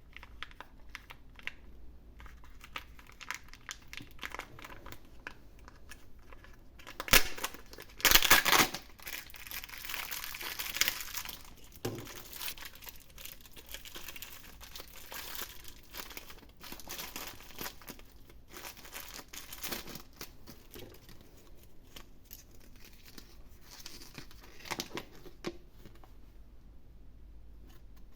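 Wrapper crinkling and tearing as a surprise egg's packaging is opened by hand. It crackles throughout, with the loudest bursts of crinkling about seven and eight seconds in.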